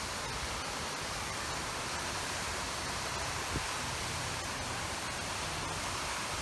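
Rain falling steadily, an even hiss with no change in level.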